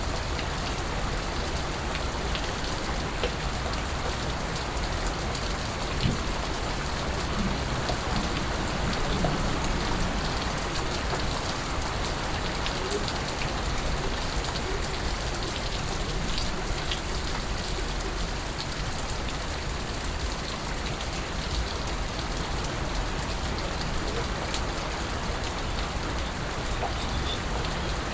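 Steady rain falling, an even hiss with scattered individual drops and drips ticking through it.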